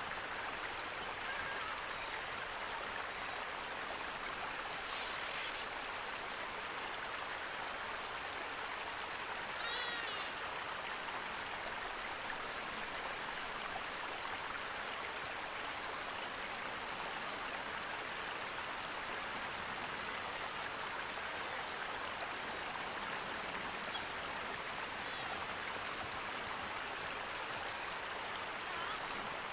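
Steady rushing of a stream or small waterfall. A bird gives brief chirps a few times, around five and ten seconds in.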